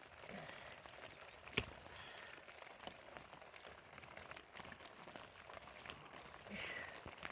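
Rain falling, a faint steady patter with scattered drip ticks. There is one sharp click about a second and a half in.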